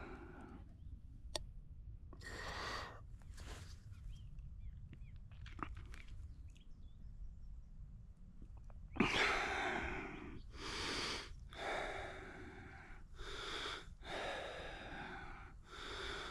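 A man breathing hard after steep uphill walking, with a few soft breaths early on and then, from about nine seconds in, a run of loud, rasping breaths in and out, about one a second. A steady low wind rumble on the microphone sits under it.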